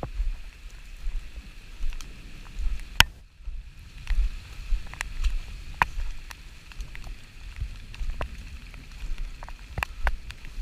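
Rain falling, with scattered sharp ticks of drops landing close by, the loudest about three seconds in, over a low rumble of wind on the microphone.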